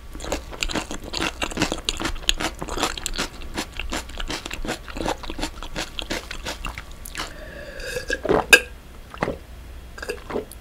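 Close-miked chewing of cream pasta with onion slices: fast, wet crunching and smacking. Near the end the chewing thins out into a few separate clicks and swallows as water is drunk.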